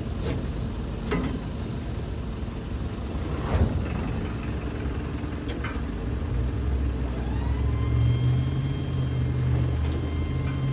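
Mitsubishi Fuso dump truck's diesel engine running, with a few clicks and knocks in the first half. About two-thirds of the way in the engine comes up in speed, and a high whine rises and then holds steady.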